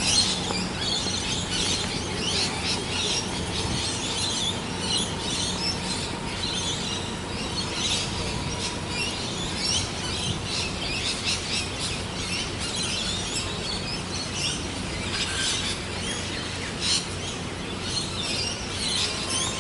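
Small birds chirping busily and continuously, many quick high chirps overlapping, over a steady outdoor background hiss.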